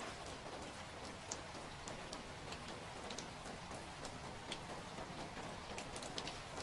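Steady rain falling, an even hiss with scattered, irregular drip taps on a surface.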